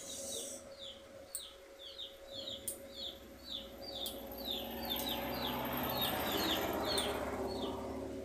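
A small bird chirping over and over, short falling chirps two or three a second. About a third of the way in, a rushing noise builds up, becomes the loudest sound and cuts off suddenly near the end.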